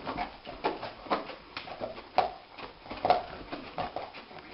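A small dog making a series of short, irregular sounds, roughly two a second, as it wriggles and rolls on a carpet.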